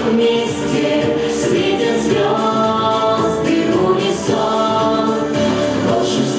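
Vocal ensemble singing a song together in chorus, with held, sustained notes over a musical backing.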